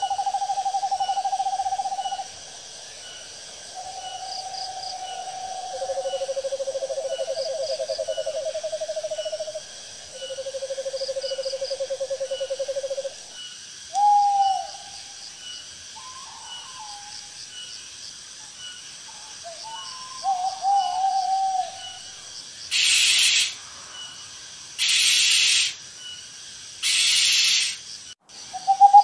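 Owl calls: four long trilled notes of two to three seconds each at a steady pitch, two of them overlapping at different pitches. Then come a few short wavering calls and three harsh hissing screeches about two seconds apart, over faint steady insect chirping.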